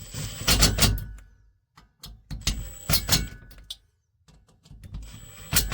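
Clattering knocks and clinks of diesel heater parts being handled during reassembly, in three short clusters with brief quiet between.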